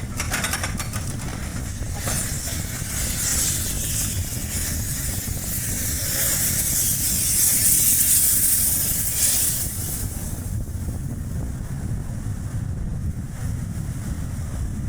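A moving Chevrolet Spark's steady low road and tyre rumble, with strong wind rushing over the camera microphone; the rushing hiss builds from about two seconds in, is loudest around eight seconds in, and drops away suddenly around ten seconds.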